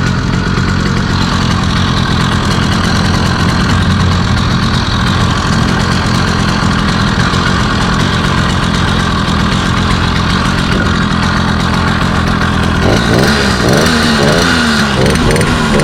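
Chinese 80cc two-stroke motorized-bicycle engine idling just after a cold start, left to warm up. Its pitch wavers up and down in the last few seconds.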